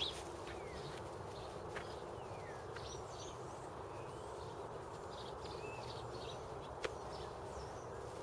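Small birds chirping faintly, short scattered calls with a few brief falling notes, over a steady outdoor background noise. A couple of sharp clicks stand out, about two seconds in and about seven seconds in.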